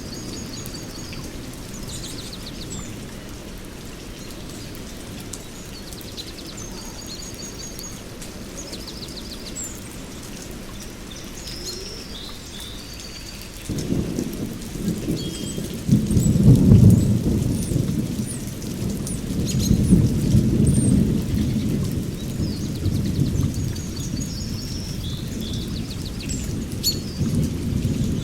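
Steady rain with small birds chirping over it. About halfway through, a roll of thunder breaks in and rumbles on, loudest a few seconds after it starts.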